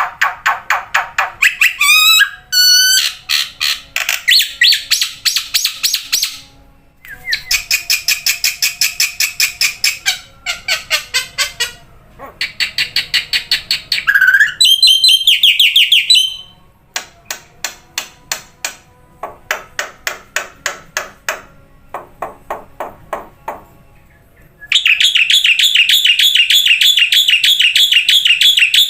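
Black-winged starling (jalak putih) singing loudly: bouts of rapid repeated chattering notes and trills broken by short pauses, ending in a long, fast continuous trill.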